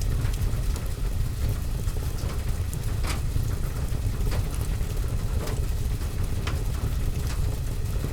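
Fireplace ambience with rain on a window: a constant low rumble under an even hiss, with scattered sharp pops and ticks.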